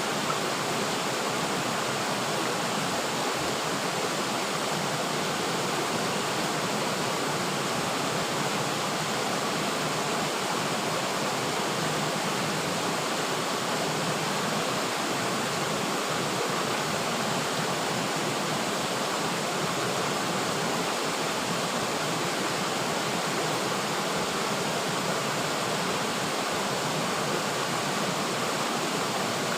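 River water flowing steadily, a continuous even rush with no distinct splashes or changes.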